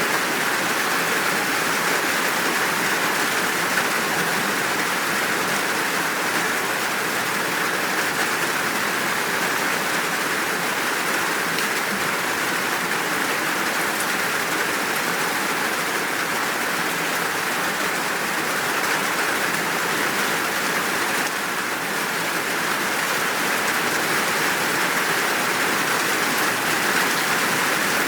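Steady, full downpour of rain, an even hiss of falling water with no thunder.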